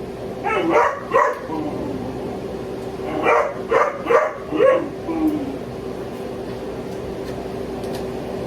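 Pet dog barking in short bursts: two or three barks about half a second in, then a run of four or five barks about three seconds in. The owner puts it down to the dog being shut away while the family eats.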